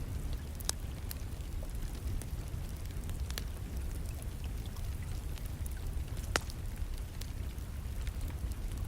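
Wood fire in a fireplace crackling, with scattered sharp pops (the loudest about six seconds in), over a steady low rumble and the constant hiss of rain.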